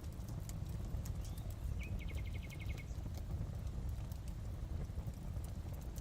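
Fireplace fire crackling over a low steady rumble, with scattered sharp pops. A small bird gives a short, high, rapid trill of about ten notes about two seconds in.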